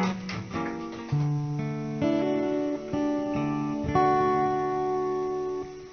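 Acoustic guitar playing a slow chord introduction to a ballad, a new chord struck about once a second and left to ring, dying away near the end.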